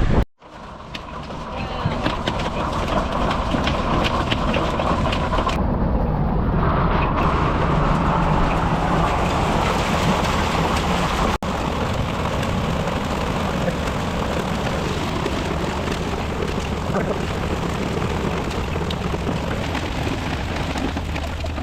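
Hailstorm pelting a new RV: a dense, steady clatter of hailstones hitting the vehicle over a low rumble, loud enough that the owners say it has broken the RV in.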